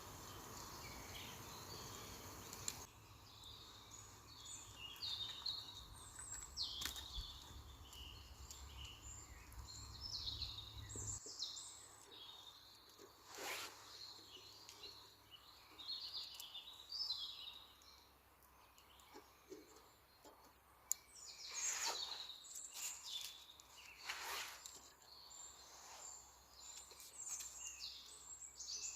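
Birdsong in woodland: several small birds chirping and trilling in short phrases, with a low steady rumble underneath for the first ten seconds or so.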